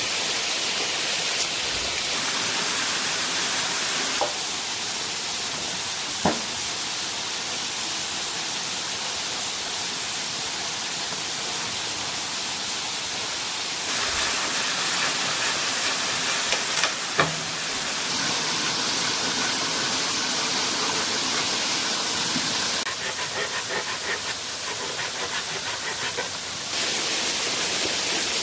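Steady rush of falling water from a waterfall, with a couple of sharp knocks or clicks.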